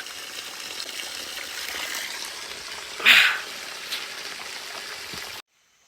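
Small spring-fed stream trickling and running steadily, with a brief louder splash about three seconds in. The sound cuts off suddenly near the end.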